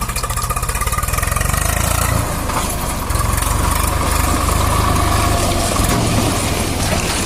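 Diesel engine running steadily with an even, low pulsing beat, dipping briefly about three seconds in.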